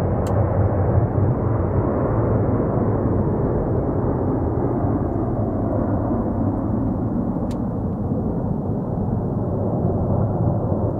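Airbus A330-300 jet engines running with a loud, continuous roar that slowly fades and grows duller. Two faint clicks sound over it, one near the start and one about two-thirds through.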